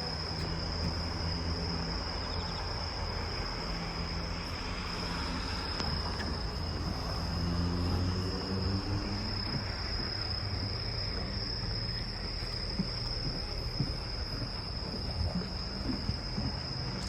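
Crickets singing as a steady, high-pitched outdoor chorus, with a low hum coming and going underneath.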